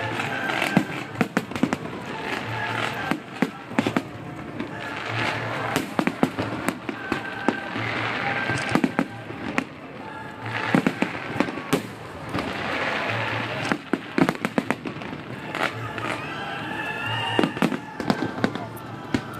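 Aerial fireworks bursting in rapid volleys, many sharp bangs and crackles one after another.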